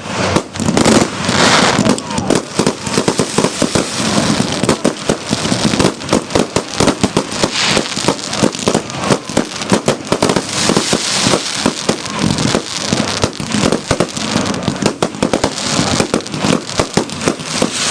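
Fireworks display going off, a rapid, continuous run of bangs and crackles with no pause, over crowd voices.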